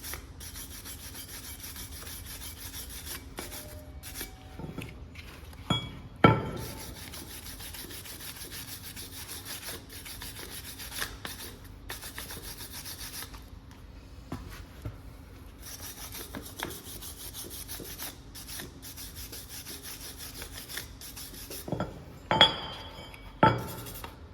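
Steady hand rubbing and scraping on metal brake parts, with a few sharp metallic clinks about six seconds in and twice more near the end.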